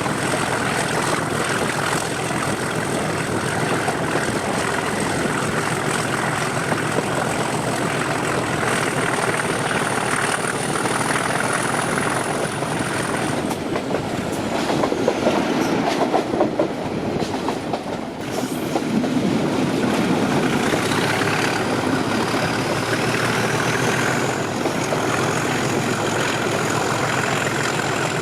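English Electric 12CSVT diesel engine of a Class 37 locomotive working under power, heard from the train behind it, with a high turbocharger whistle over the engine noise. The whistle rises, fades out about halfway through, then climbs back in a few seconds later and holds.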